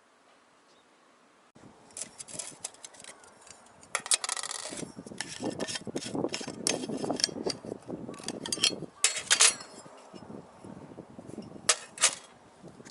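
Camping gear being handled: a quick run of clicks, knocks and clatter with rustling, starting about a second and a half in, loudest around the middle, with two sharp clicks near the end.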